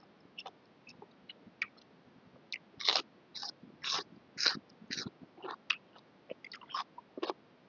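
Close-up chewing of noodle soup: irregular wet mouth smacks and clicks, busiest and loudest about three to five seconds in.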